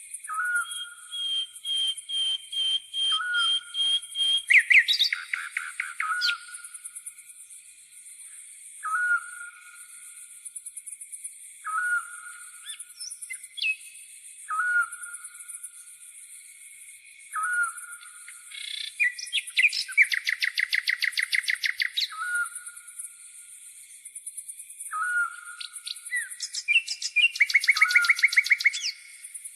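Nature soundscape: a steady high-pitched insect chirring, likely a grasshopper, runs throughout. Over it a short whistled note repeats every two to three seconds. Songbirds give loud rapid trills three times, near the start, in the middle and near the end.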